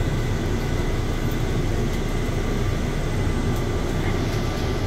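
Airport people-mover train running through its tunnel, heard from inside the car: a steady, even rumble with faint steady high-pitched tones over it.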